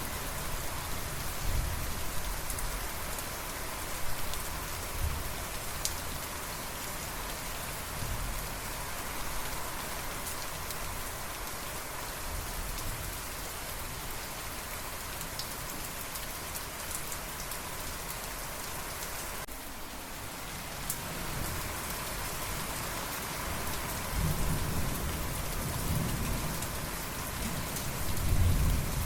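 Steady heavy rain falling, with distant thunder rumbling low in the first few seconds and again, louder, in the last few seconds.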